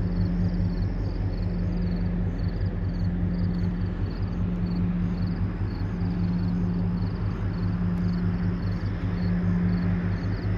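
A passing tanker ship's engine: a steady low throbbing drone with a fast pulse. A faint high chirp repeats about twice a second above it.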